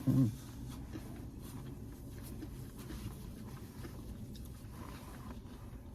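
Faint small rustles and ticks over a low steady hum inside a car cabin, the quiet handling sounds of someone eating and cleaning up in a parked car.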